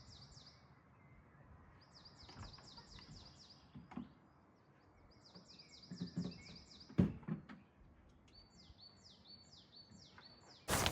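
A small songbird singing short, rapid trilled phrases a few seconds apart, then a run of separate down-slurred notes, with a few soft knocks about four and seven seconds in. Just before the end a loud rushing noise starts suddenly and covers everything.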